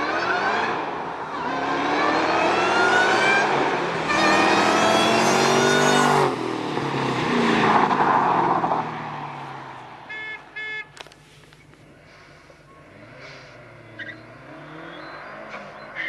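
A car accelerating hard through the gears past the listener: the engine note climbs, drops at two upshifts and climbs again, then falls in pitch and fades as the car goes by. Two short beeps follow about ten seconds in.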